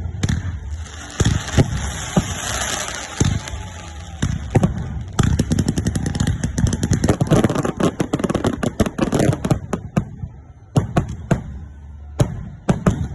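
Fireworks and firecrackers going off in sharp bangs. The bangs come as a rapid string from about five seconds in, ease off briefly near ten seconds, then pick up again with a few scattered bangs, over a steady low rumble.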